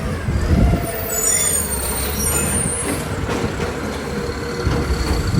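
Garbage truck engine running with a low rumble, and a high-pitched squeal from about one to three seconds in.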